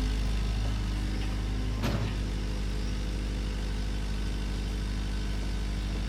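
Bulldozer's diesel engine running steadily at a low, even pitch, with a single sharp knock about two seconds in.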